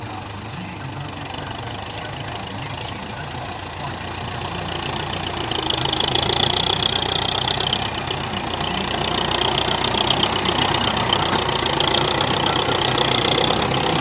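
Diesel tractor engine running, getting louder about five seconds in and staying louder to the end.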